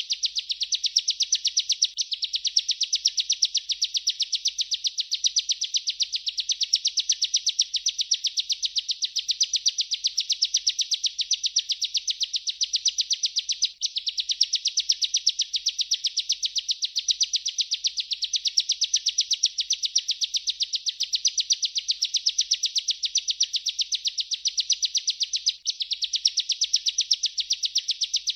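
Bar-winged prinia (ciblek) singing a continuous rolling song: a fast, even run of high chirps with no pause, breaking off for an instant twice.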